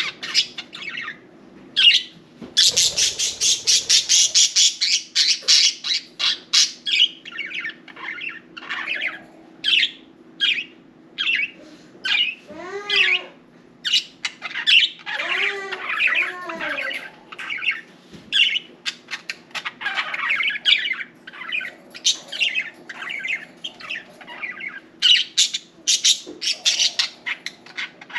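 Several budgerigars chattering and squawking in quick, overlapping short calls, with a busier burst of rapid calls a few seconds in.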